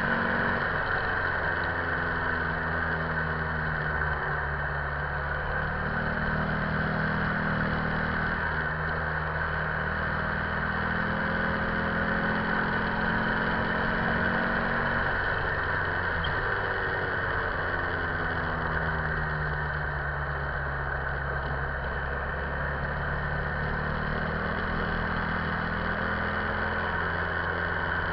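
2008 Buell XB9SX's 984 cc air-cooled V-twin running steadily at highway speed, around 5,000 rpm in a high gear, its note rising and falling slightly. Wind noise rushes past throughout.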